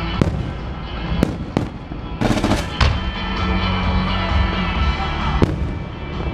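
Fireworks shells bursting over music: a series of sharp bangs, with a quick cluster of reports a little after two seconds in and a last single bang near the end.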